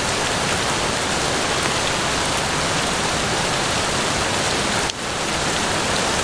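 Steady rain, a dense even hiss of falling drops, with a brief dip in level about five seconds in before it swells back.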